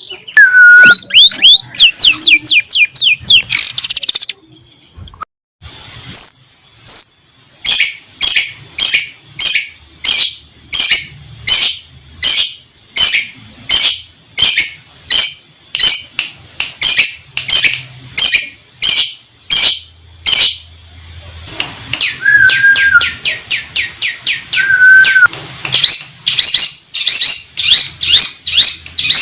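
Long-tailed shrike (cendet) singing loudly, with imitations of canary and lovebird in its song. After a brief lull it gives a long run of sharp chirps about two a second, then faster trills with two short whistled notes near the end.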